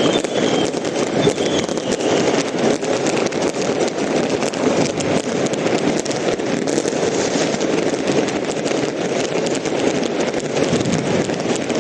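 Continuous New Year's firecrackers and fireworks: many small bangs and crackles overlapping into a steady din. A faint falling whistle, like a rocket's, is heard in the first second.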